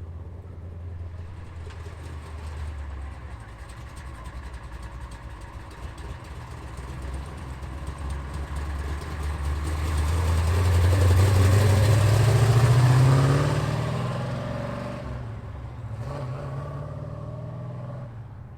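Muscle car engine and exhaust rumbling as cars roll out; about halfway through one accelerates past, its note rising in pitch and getting louder to a peak, then fading as it moves away.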